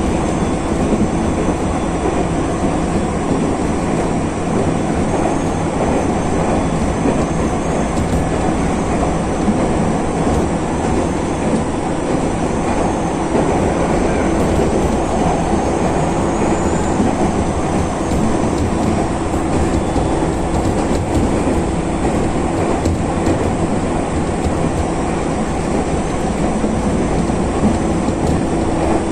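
Ex-Tokyu 8500 series electric train of the Nagano Electric Railway running at speed, heard from inside the car: steady running noise of wheels on rail with a low hum.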